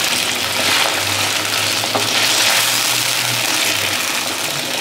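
Chicken pieces sizzling in hot oil with fried onions in a heavy black pot while being stirred with a spatula, a steady crackling hiss as the chicken browns and its extra water cooks off. A faint low hum sits underneath from about one to four seconds in.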